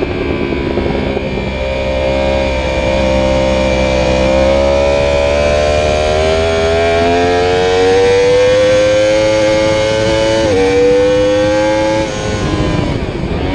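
Yamaha YZF-R1 sport bike's inline-four engine heard from onboard, pulling hard in second gear with its pitch rising steadily, then a quick upshift to third about ten seconds in and further acceleration, with the throttle easing off near the end. Wind rush on the microphone underneath.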